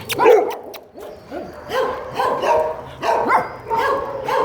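Dog barking and yipping in a run of short calls, about two a second.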